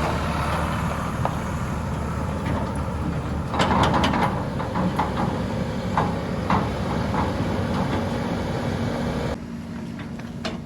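Diesel engines of a backhoe loader and tractor running steadily, with several metallic clanks and knocks from the loader's bucket and mud going into the trolley. The level drops suddenly near the end.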